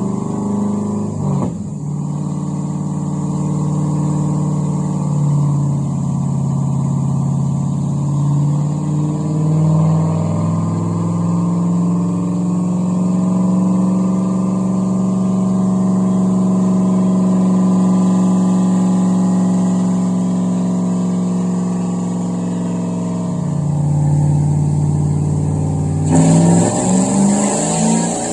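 Chevy 5.3 LS V8 in a Nissan 240SX running under load on a chassis dyno, held at steady engine speeds that shift in small steps, as in steady-state tuning, then climbing in steps near the end.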